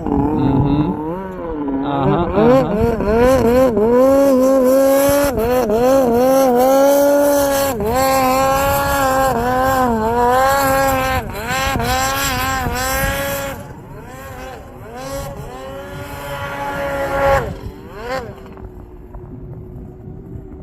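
Snowmobile engine revving up and down repeatedly under throttle while riding through the backcountry. About thirteen seconds in it eases off and gets quieter, gives one short rev near the end, then settles to a lower, steady running note.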